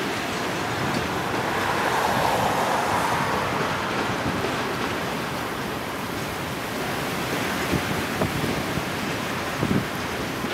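Freight train of covered hopper cars rolling slowly past, under steady wind buffeting the microphone, with a few wheel clacks near the end.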